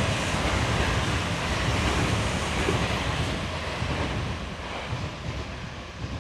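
Rumble of a train passing out of view, fading steadily as it moves away.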